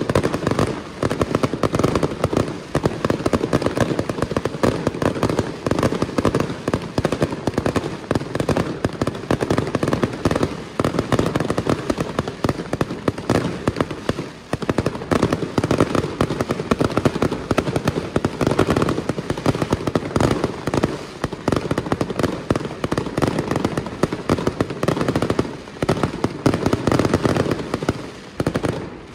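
Aerial fireworks barrage: bursts and crackles in a rapid, unbroken succession, dropping away sharply near the end.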